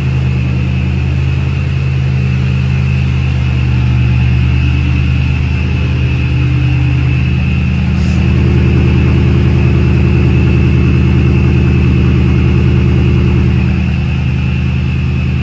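1996 Ford Mustang GT's 4.6-litre V8 with reworked exhaust idling steadily with a deep, even note. The idle comes up slightly about halfway through and eases back down near the end.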